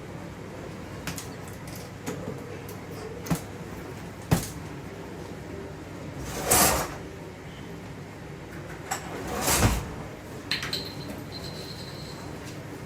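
Kitchen handling sounds: scattered clicks and knocks, then two louder brief sliding or scraping sounds, like cupboards and kitchenware being moved, over a steady low hum.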